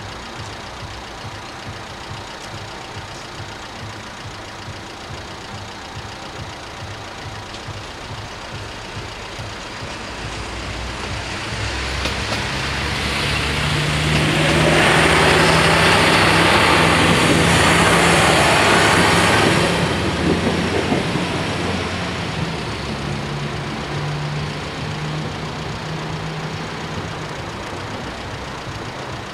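Siemens Desiro diesel multiple unit (DB class 642) passing over the level crossing. The rumble of its wheels on the rails and the steady hum of its diesel engines build up, stay loud for several seconds in the middle, then fade away.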